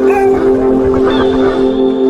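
Animal call sound effects, short cries that bend in pitch, over a steady droning music bed.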